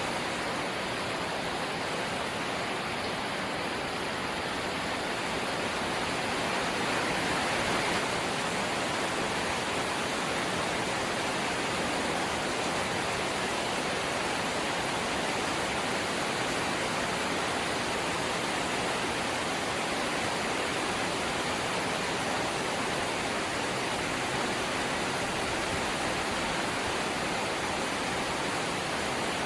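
Steady light rain falling, an even hiss with no breaks or single drops standing out.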